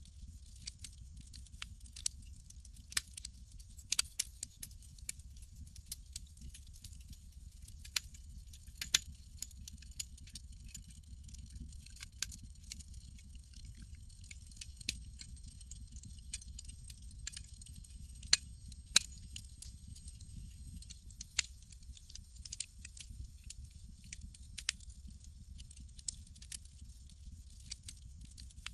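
Campfire crackling: irregular sharp pops and snaps over a steady low rumble and a faint high hiss, with two louder pops close together past the middle.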